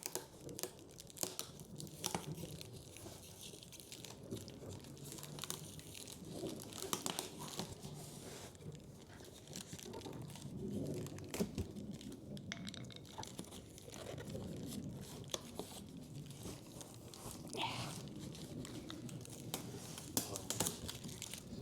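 Packing tape on a cardboard box being scraped, poked and torn at with a small screwdriver, with irregular scratching, crinkling and crackling.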